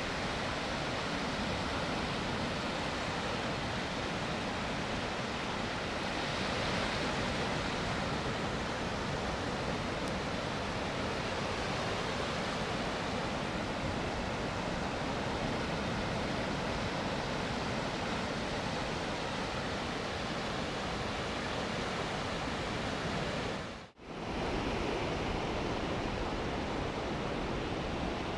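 Gulf of Mexico surf washing on the beach, a steady rush with no pauses. About four seconds before the end it briefly cuts out and then resumes.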